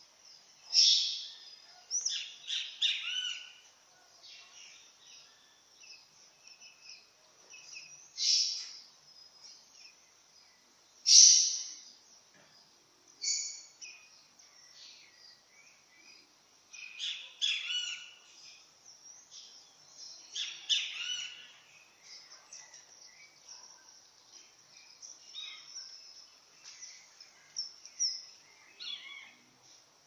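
Wild songbirds calling and singing in the trees. Short, loud high-pitched phrases and trills come every few seconds, spaced irregularly, over fainter chirping.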